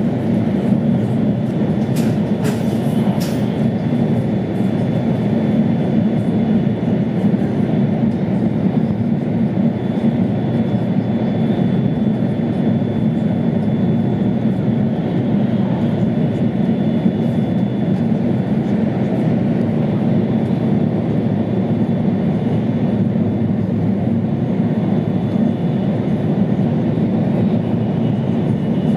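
Cabin noise of an E2 series Shinkansen running at high speed: a steady low rumble from the wheels on the rails and the air rushing past, heard inside the passenger car. A few faint clicks come about two to three seconds in.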